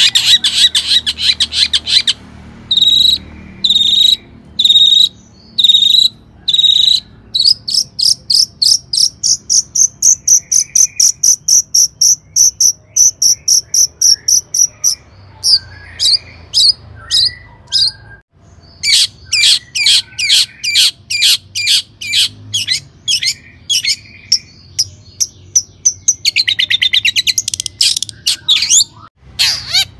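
Long-tailed shrike (cendet) singing energetically: a fast, harsh chatter of quick repeated notes, with a long run of rapid high notes in the middle and brief pauses twice near the end.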